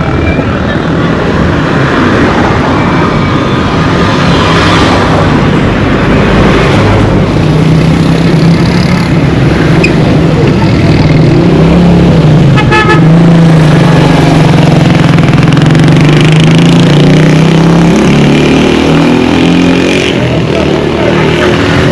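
Roadside traffic: a motor vehicle's engine running close by, its note rising near the end, with a short horn toot about 13 seconds in.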